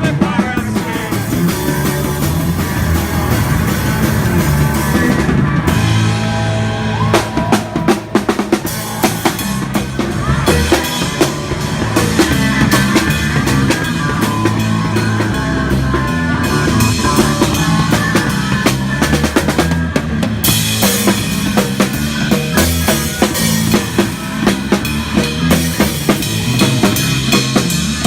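Live punk band playing an instrumental stretch, the drum kit's snare and bass drum to the fore over a low bass line.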